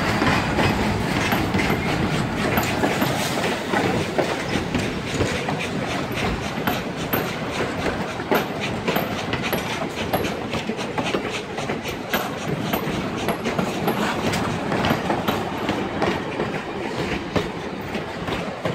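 Railroad cars of a steam-hauled train rolling past at close range, steel wheels clicking over the rail joints in a continuous clickety-clack. The sound eases slightly toward the end as the last car, a caboose, goes by.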